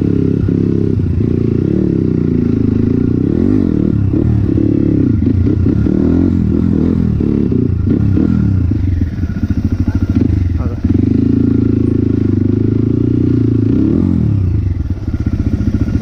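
Motorcycle engine running on the move, its pitch rising and falling as the throttle changes, with some clatter.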